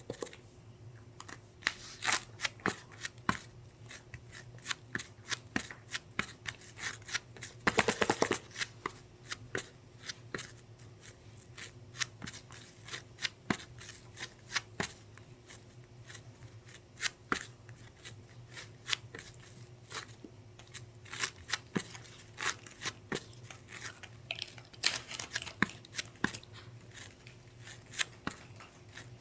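Squishy toy with resin-art toppings being handled: scattered sharp clicks and taps. A dense rattling flurry comes about eight seconds in, and another a few seconds before the end.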